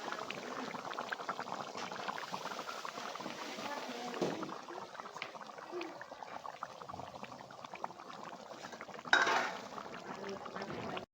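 Chicken curry boiling in a pot, a steady crackle of small popping bubbles. About nine seconds in there is a brief, louder noise.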